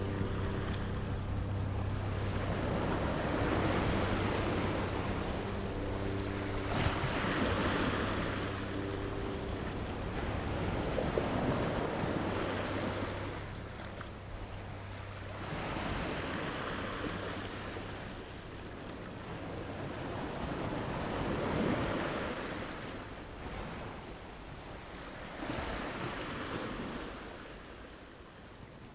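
Sea waves washing in, swelling and ebbing every four to five seconds. A ship's engine drones low underneath and fades out about halfway through.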